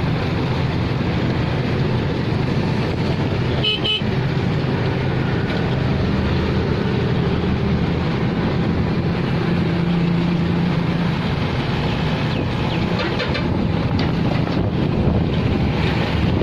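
Tractor's diesel engine running steadily under heavy load as it pulls an overloaded sugarcane trolley, with a brief horn toot about four seconds in.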